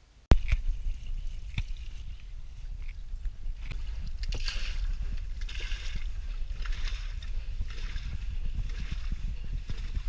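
Small sailing boat under way: a steady low rumble, with hissing surges of water washing along the hull roughly every second. The sound cuts in abruptly just after the start.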